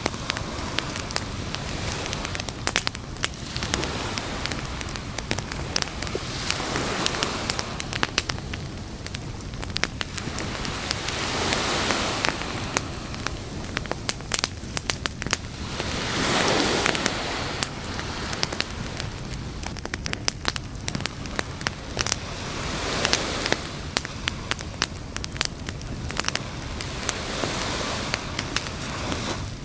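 Beach campfire crackling and popping, with frequent sharp snaps of burning wood over a steady hiss. Surf swells and washes in under it every few seconds.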